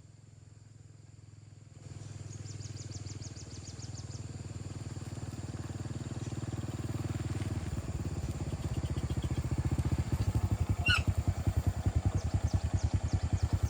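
Motorcycle engine drawing closer, its hum growing steadily louder and turning into a fast, pulsing beat, then stopping suddenly at the end.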